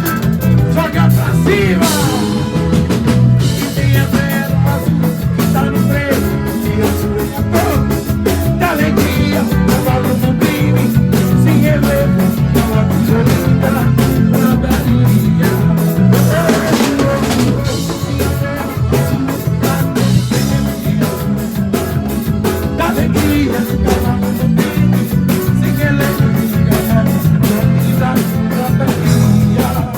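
Band music without lead vocals: a drum kit keeping a fast, steady beat under guitar and bass.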